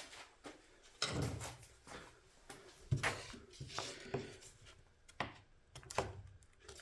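Scattered handling noises at a workbench: short knocks, clicks and brief scrapes as a glued, pinned part is worked loose by hand.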